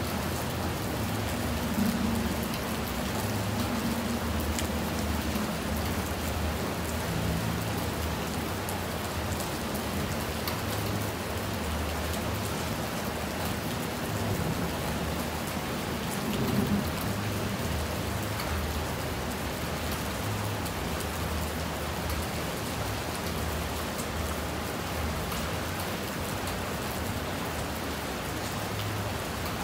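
Steady rain falling, an even hiss with a low rumble underneath that swells briefly about two seconds in and again near the middle.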